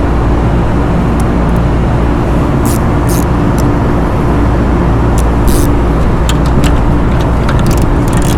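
Steady drone of running rooftop machinery with a fixed low hum, and scattered short metallic clicks from a small hand ratchet tightening the motor mount bolts.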